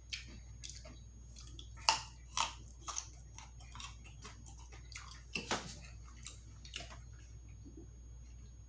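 Close-miked chewing and mouth sounds of someone eating, with irregular sharp crunches and smacks, the loudest about two seconds in and another cluster past the middle, quieter toward the end.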